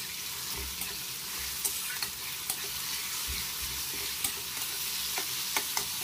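Rugda mushroom masala frying in a metal kadai, sizzling steadily, while a metal spatula stirs it, giving scattered clicks and scrapes against the pan.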